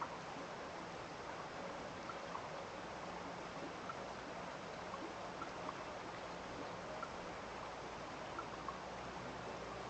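Running water of a small stream, a steady rush, with short faint plinks scattered irregularly through it.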